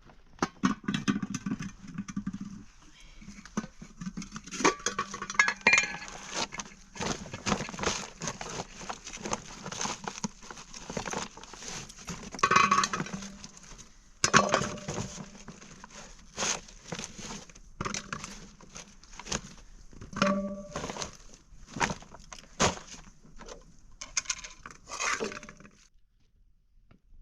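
Hard objects being handled: a long run of irregular clinks, knocks and clatters, with a few louder strikes and a brief ring among them.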